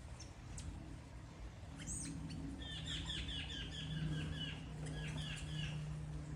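Crimson-backed tanager chirping: a sharp high note about two seconds in, then a rapid run of repeated chirps for about three seconds, over a steady low hum.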